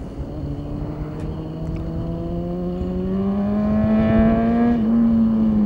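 Honda CBR600RR sportbike's inline-four engine pulling steadily higher in revs for about five seconds, growing louder. Near the end the revs ease off slightly.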